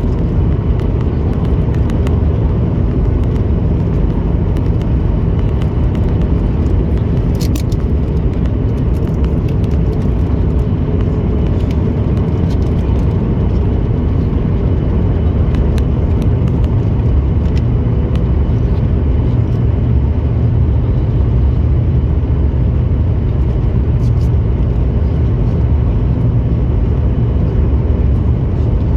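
Steady low rumble inside an airliner cabin: jet engine and airflow noise, even throughout.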